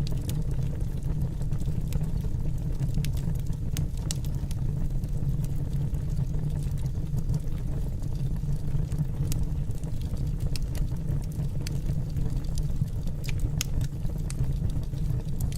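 Wood fire burning in a fireplace: sharp, irregular crackles and pops over a steady low rumble of flame.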